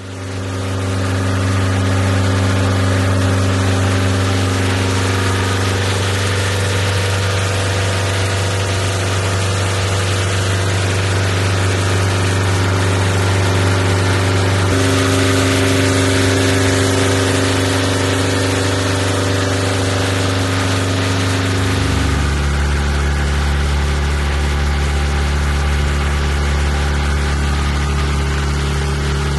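Diesel engine running steadily. Its note shifts about halfway through and drops lower near the end, as the engine speed changes.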